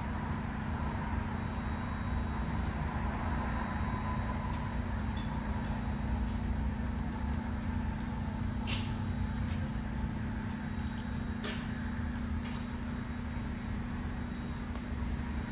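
Steady low hum of workshop machinery with a few short hisses partway through.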